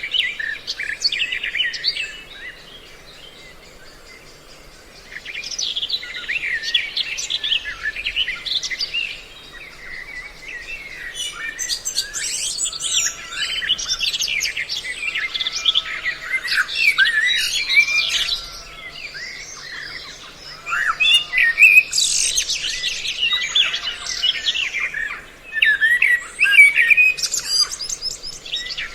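A mixed recording of several kinds of small songbirds chirping and calling in quick, overlapping notes, made as a lure to draw birds in for trapping. It is quieter for a few seconds near the start, then busy and louder.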